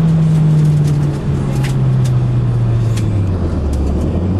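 Suzuki Swift's engine heard from inside the cabin, its revs falling steadily and sinking lower still about three and a half seconds in.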